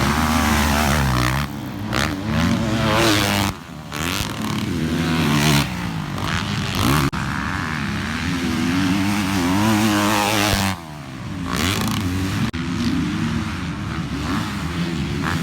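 Motocross dirt bike engine revving up and down as it rides, the pitch climbing and falling again and again, with a few sudden throttle chops.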